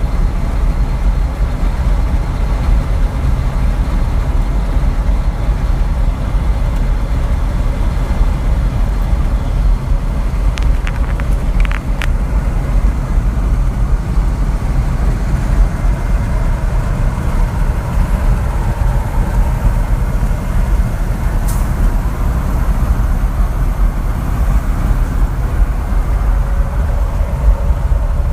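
A truck driving along, with a steady low rumble of engine and road noise. A few brief clicks come about ten to twelve seconds in, and another one about twenty-one seconds in.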